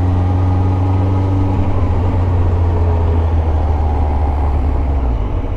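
2001 Yamaha FZS1000 Fazer's inline-four engine running at low, steady revs as the bike rolls slowly, with a rush of wind noise over it. The engine note falls away about five seconds in.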